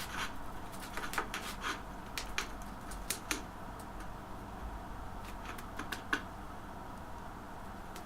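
Irregular light clicks and taps of small hard objects, coming in small clusters, over a steady low hum.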